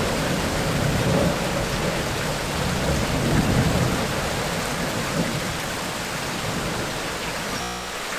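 Heavy tropical rain falling, with a low rumble of thunder rolling through the first half and fading. Shortly before the end the sound cuts abruptly to a steadier rain hiss with much less rumble.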